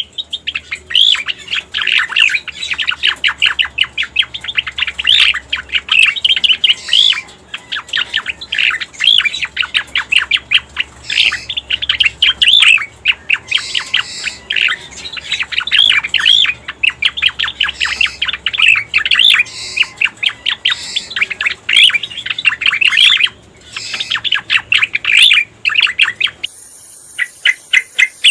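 Cica koreng (cucak koreng) song used as a bird-lure recording: a long, fast run of chattering chirps, many notes a second, that goes on almost without a break. Near the end it switches to a different phrase over a steady high hiss.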